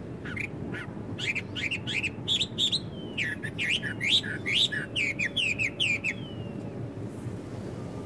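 Blackbird singing a quick run of sharp, falling chirps for about six seconds, over a steady low background rumble.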